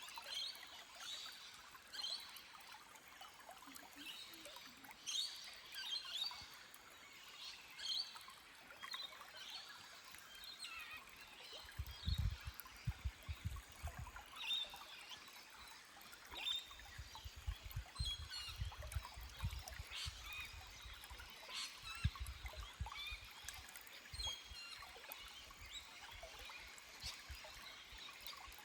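Forest stream trickling over rock, with small birds chirping in short calls throughout. A few bouts of low rumble come about halfway through.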